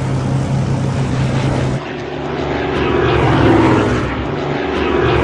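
Propeller engine of a Messerschmitt Bf 109 fighter plane droning steadily. About two seconds in the sound changes abruptly to a rougher engine noise that swells twice as the plane passes.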